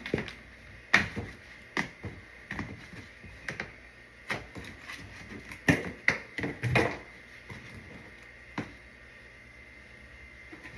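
Irregular knocks and clicks, about a dozen spread unevenly, with a faint steady high-pitched tone behind them.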